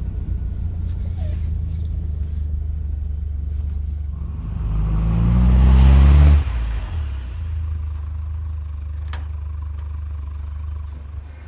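1995 Toyota TownAce truck's engine idling steadily. About four and a half seconds in, it is revved once, rising to a peak over roughly two seconds, then snaps back to idle.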